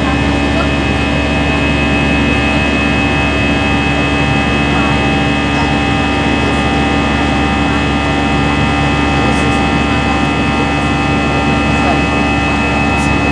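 Airbus A320 in flight heard from inside the cabin: a steady, unbroken jet-engine and airflow noise with a deep rumble and several constant engine tones over it.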